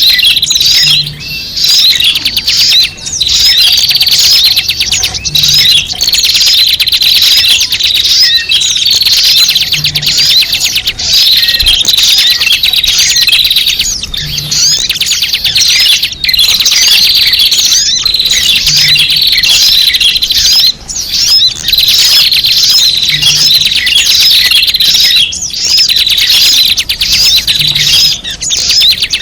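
Many small birds chattering at once: a loud, dense, unbroken mix of high chirps and tweets. It is a bird-lure (pikat) recording of noisy small birds, played to draw wild birds in.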